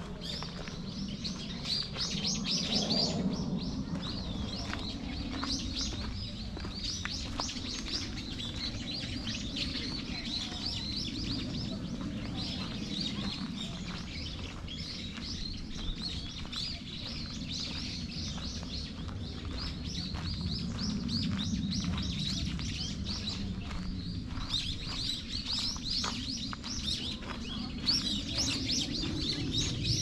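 Many small birds chirping in quick, short, high calls throughout, busiest near the start and again near the end, over a steady low rumble.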